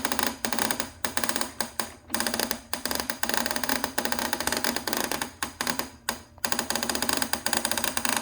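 Motorized Thomas toy train set running, its mechanism giving a rapid, steady clatter of clicks, with a few brief pauses near the start and one about six seconds in.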